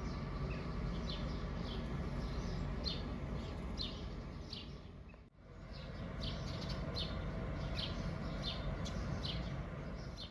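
Small birds chirping again and again over a steady outdoor background hum, with a sudden brief break about five seconds in.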